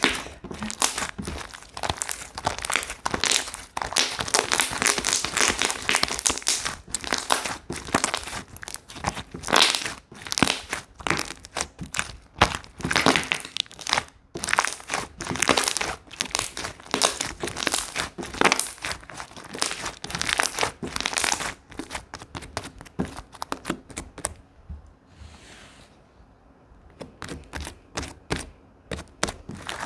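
Slime being squished, pressed and stretched by hand, making a dense run of crackling, popping clicks. It goes quieter for a few seconds about 24 seconds in, then picks up again near the end.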